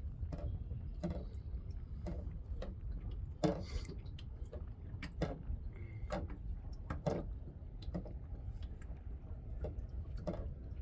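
Scattered light knocks and clicks from the kayak and its fishing gear as it drifts, over a steady low rumble of wind on the microphone.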